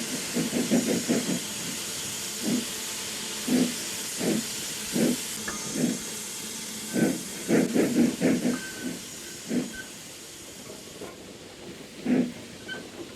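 Austerity 0-6-0 saddle-tank steam locomotive working hard under a steady hiss of steam, its exhaust beats irregular: single slow chuffs, then quick flurries of beats about a second in and again around seven to eight seconds in as the driving wheels slip on greasy rails under a load of full wagons.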